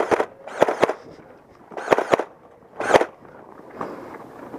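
Nerf foam-dart blaster firing in four short bursts of rapid clicks over a few seconds.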